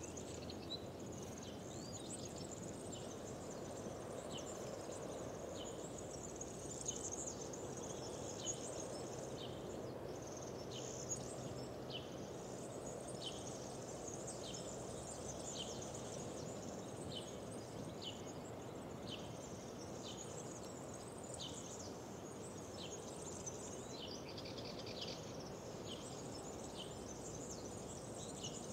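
Several wild birds singing: one repeats a short call about once a second while others twitter higher, over a steady low rushing background.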